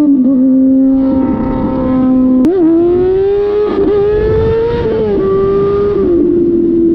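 Motorcycle engine running at high revs, its pitch held steady for stretches and then rising or dropping, with a sudden jump in pitch about two and a half seconds in.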